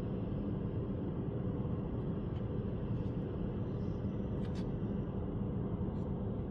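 Steady machine hum with a few faint metallic clicks as a hydraulic line fitting on a skid steer is worked loose and pulled off.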